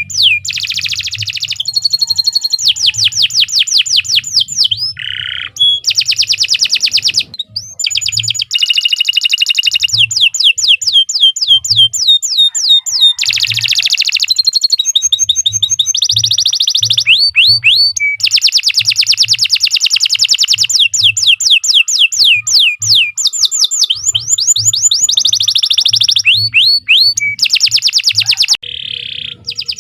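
Domestic canary singing a long, unbroken song of rapid rolling trills, switching from one trill to the next every second or two with only brief pauses.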